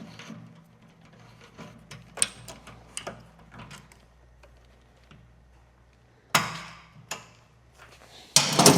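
Metal hand-tool work on a motorcycle's fuel tank bolts: scattered light clicks and clinks, then two louder knocks about six and seven seconds in and a louder clatter near the end.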